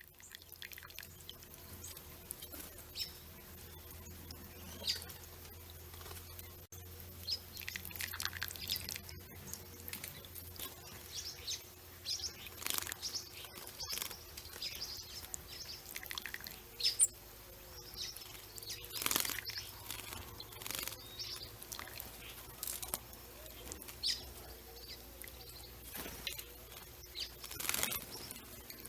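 Small songbirds chirping and calling in short, scattered notes, with a few brief noisy bursts among them.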